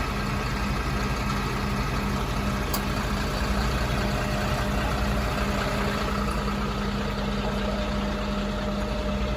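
Heavy engine of a fire engine idling steadily, an even low drone.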